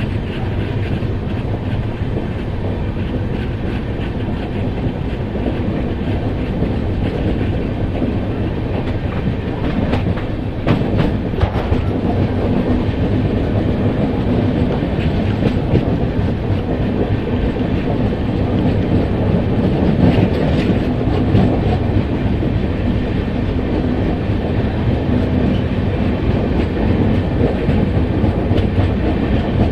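Train running along the track with a steady, loud rumble. Sharp clanks come about ten seconds in and again around twenty seconds.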